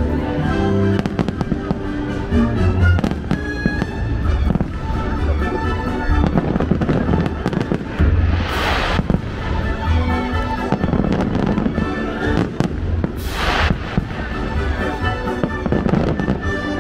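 Aerial fireworks bursting overhead in rapid succession, many sharp bangs and crackles over music. Two louder hissing washes stand out, about eight and thirteen seconds in.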